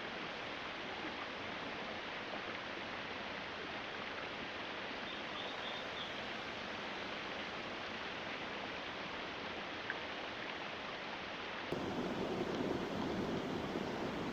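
Steady, even rushing noise, like outdoor water or wind ambience, with a single faint click about ten seconds in; near the end it changes abruptly to a louder, deeper rush.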